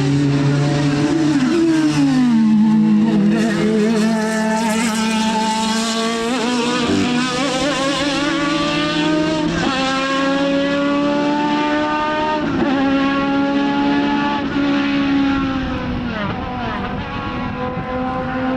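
Racing car engine on track: its pitch falls over the first few seconds, then climbs and drops sharply at each upshift, about three times a few seconds apart. The sound fades a little near the end.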